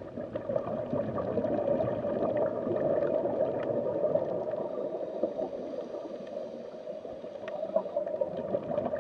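Underwater bubbling and gurgling sound effect, a continuous watery burble with small scattered pops.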